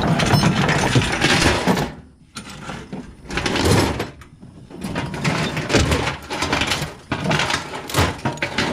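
Heavy rusty metal chain rattling and clanking as it is hauled and dropped, in four spells of clatter with short pauses between.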